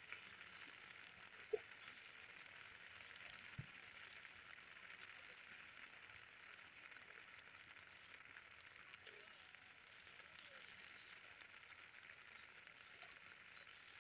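Rain falling on a lake's surface: a faint, steady hiss, with a sharp small knock about one and a half seconds in and a softer one about three and a half seconds in.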